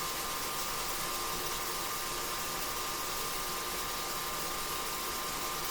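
Beef sizzling steadily in a frying pan as it browns, an even hiss with no break.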